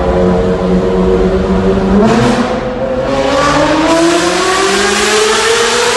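Car engine in a tunnel, running at steady revs, then about two seconds in the throttle opens and the engine's pitch climbs steadily as it accelerates hard.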